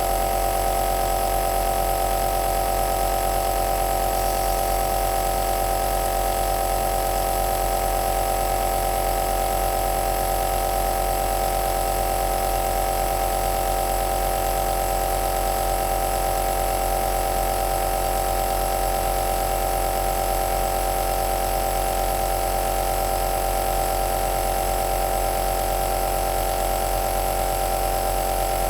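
Compressor nebuliser (aerosol machine) running steadily: an even mechanical hum with a hiss above it, unchanging throughout.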